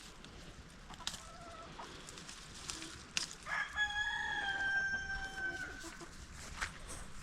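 A rooster crowing once: one long call of about two and a half seconds that rises at the start and then holds. A shorter, fainter call comes about a second in, and a few sharp clicks are heard around the crow.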